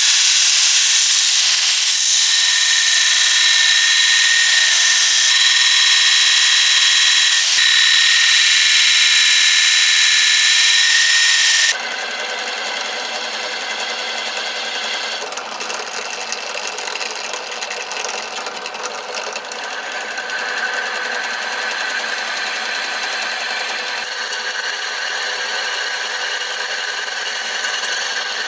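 Electric power tools running steadily in three separate stretches, each cut off abruptly about twelve seconds and twenty-four seconds in. Each has a steady high whine, and the middle stretch is quieter.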